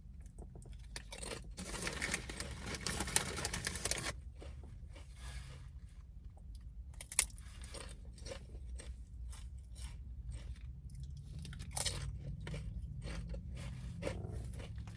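Close-up chewing of a buffalo chicken tender sub: crunching bites and many small mouth clicks, busiest in the first few seconds.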